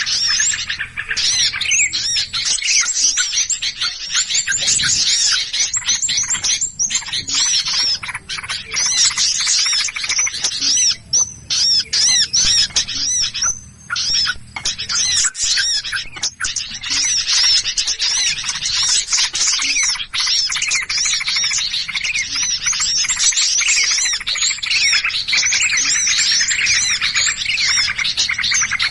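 Dense, loud, non-stop chattering and chirping of many small songbirds together, the agitated 'noisy bird' calls played as a lure to draw other small birds in.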